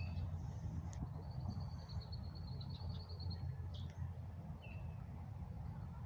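Songbirds singing: a rapid trill of high notes lasting about two seconds, then a short single call, over a steady low rumble.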